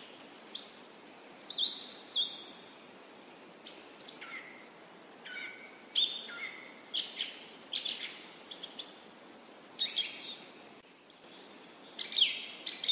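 Birds singing: clusters of short, sweeping chirps and whistled notes, broken by brief pauses.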